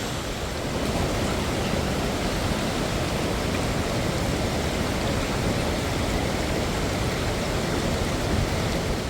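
Steady rush of falling water from a waterfall, an even, unbroken noise that gets a little louder about a second in.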